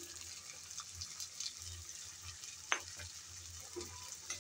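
Faint sizzle of onions and whole spices frying in oil in an aluminium pan as ground spices are added, with one sharp tap about two and a half seconds in.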